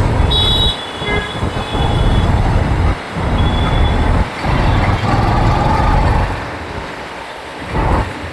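Wind buffeting the microphone of a moving motorcycle, a heavy rumble that swells and dips, with the bike and surrounding road traffic under it. A brief high squeal sounds near the start.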